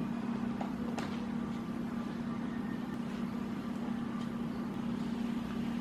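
A steady low hum, with a couple of faint light clicks about a second in.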